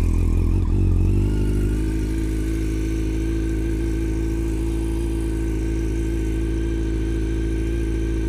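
Yamaha FZ8's inline-four engine with an Akrapovic slip-on exhaust idling, settling from a slightly higher idle to a steady one in the first second or two.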